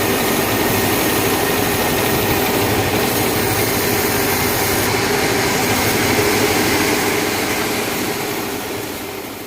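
Sawmill machinery running with a steady loud drone and hum, fading out near the end.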